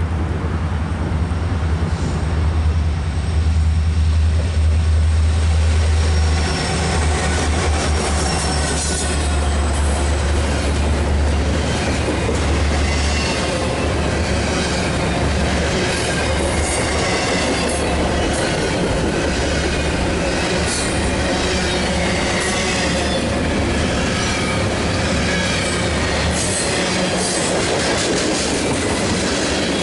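BNSF mixed freight train passing close by: a strong low diesel rumble from the head end for the first dozen seconds, then double-stack container cars and tank cars rolling past with wheel squeal and steady clicking of wheels over the rail joints.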